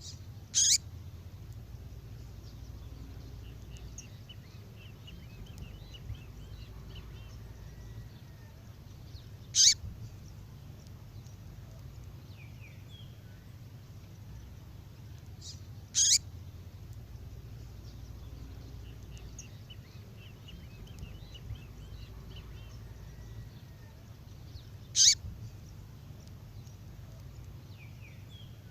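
Recorded female songbird call, repeated for luring male songbirds: a short, sharp call four times, six to nine seconds apart, with faint soft chirps between. A steady low hum runs underneath.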